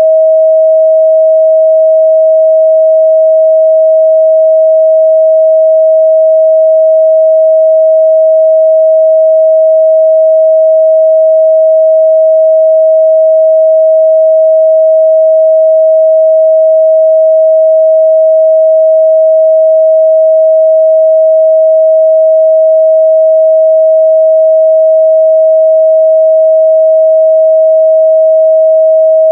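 A steady, loud 637 Hz sine-wave test tone: one pure, unchanging pitch in the midrange.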